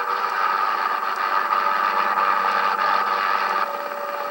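Hughes 500C helicopter running steadily, a thin, bass-less engine and rotor noise from an old videotape, easing slightly near the end.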